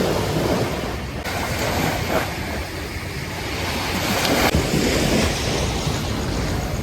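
Sea waves washing onto the beach, with wind buffeting the microphone. The surf swells louder about four seconds in.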